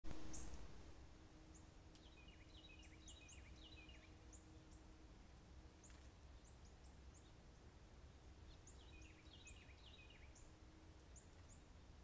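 Faint songbird calls: scattered short high chirps throughout, with two bursts of quick down-slurred notes about two and nine seconds in, over a low steady hum.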